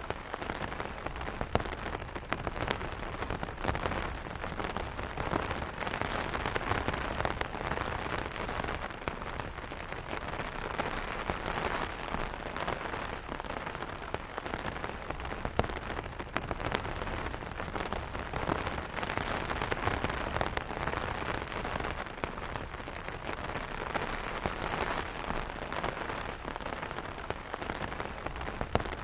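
Rain pattering steadily on an open umbrella's canopy: a dense patter of many individual drop hits, steady throughout.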